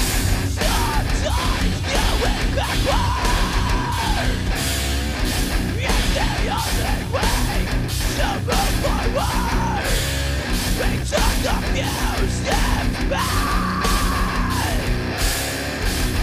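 Heavy rock band playing a loud instrumental passage: distorted guitars, a high lead melody bending up and down, and steady pounding drums.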